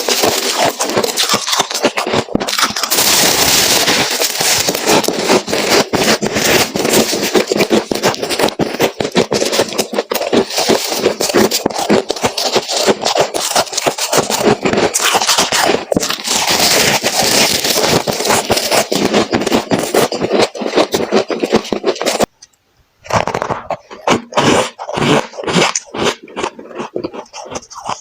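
Close-miked crunching and scraping of freezer frost, a dense run of crackly crunches. It cuts out briefly a little after twenty seconds, then comes back as sparser, separate crunches.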